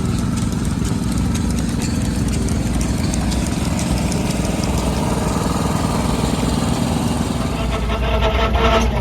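An engine running steadily, growing a little louder near the end.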